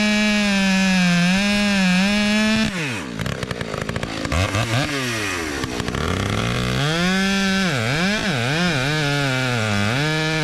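Two-stroke chainsaw running at high revs. About three seconds in the engine pitch falls sharply, then it rises and falls several times before settling back to a steady high rev near the end.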